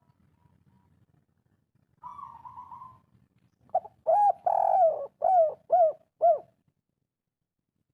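A spotted dove of the 'kuk 3' song type cooing. A soft rolling coo comes about two seconds in, then a loud phrase of about six arched coos, one of them drawn out, ending about six and a half seconds in.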